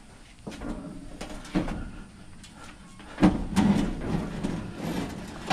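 Scrap items knocking and scraping as they are shifted and loaded, with a sharp knock about one and a half seconds in and a run of louder knocks from about three seconds in.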